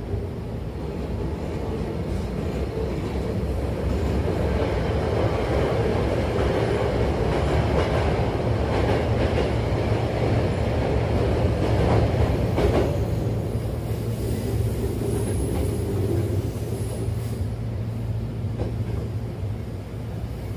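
Hankyu electric commuter train running, heard from inside the car by the doors: a steady rumble of wheels on rail that grows louder until about twelve seconds in and then eases off. Two brief faint high wheel squeals come late on.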